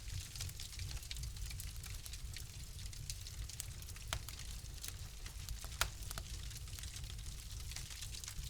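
Wood fire crackling in a fireplace: a steady low rumble with frequent small sharp pops and snaps, one louder pop near the end of the middle of the stretch.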